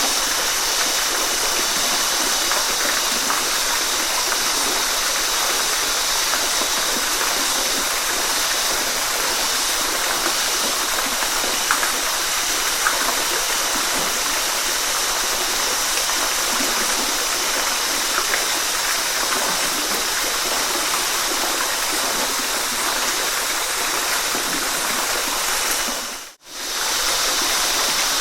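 Waterfall water rushing in a steady, hissy noise. About 26 seconds in it fades briefly to silence and comes straight back.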